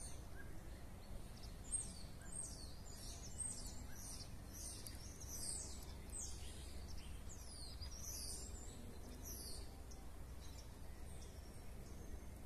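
Songbirds chirping and calling, many short high notes that fall in pitch, crowding together through most of the stretch and thinning out near the end, over a low steady rumble.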